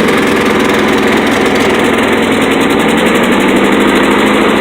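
Engine running steadily on part choke just after catching from a cold start.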